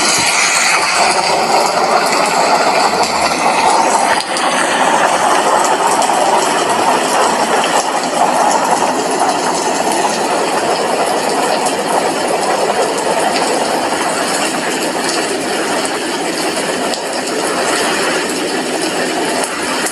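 Steady rain, drops pattering on window glass in a dense, even hiss with no thunder.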